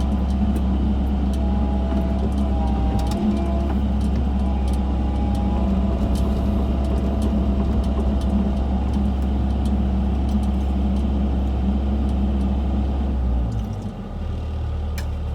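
Excavator's diesel engine running steadily while digging, with a higher whining tone that bends in pitch about three seconds in and scattered sharp clicks and knocks. The engine note dips and changes briefly near the end.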